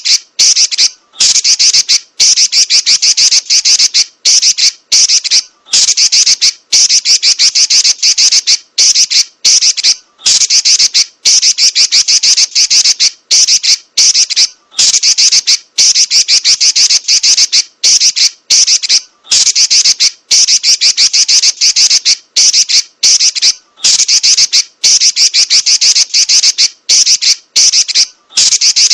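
Female Pekin robin (red-billed leiothrix) giving a loud, high-pitched, rapid rattling chatter in long rolled runs, broken by brief pauses about every second.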